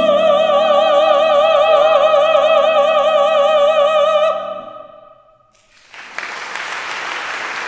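Classically trained female voices hold the final note of a Christmas song with wide vibrato over sustained piano chords, cutting off about four and a half seconds in. After a brief pause, audience applause starts about six seconds in.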